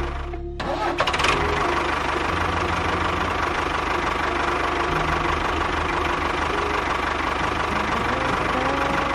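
Small engine running steadily under a continuous mechanical clatter, with a brief dip just after the start and a few sharp clicks about a second in.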